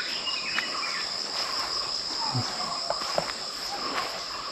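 Insects shrilling steadily in a continuous high-pitched drone, with a few faint short chirps.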